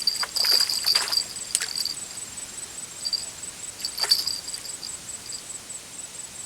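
Insects calling at dusk: a steady high buzz and a thin high chirp pulsing about five times a second. A few short, sharp noises break in during the first two seconds and once more about four seconds in.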